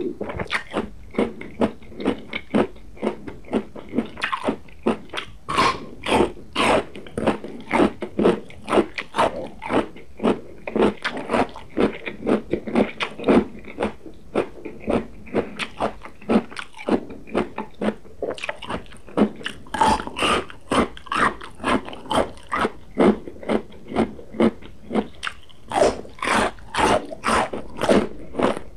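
Close-miked biting and crunchy chewing of a crisp raw vegetable stick, a steady run of crunches about two to three a second.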